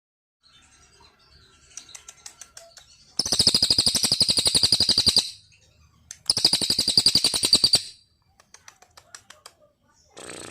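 A small songbird singing: scattered soft chips, then two loud, rapid trills, one of about two seconds and one of about one and a half seconds, with more chips after them.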